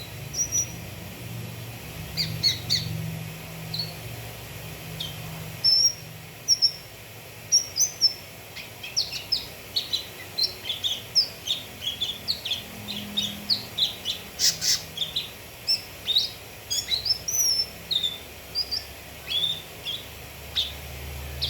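Cucak kinoi song: a long run of short, varied chirps and whistled notes, sparse at first and then quick and densely packed through the middle before thinning out again, used as a lure to get a kept bird singing.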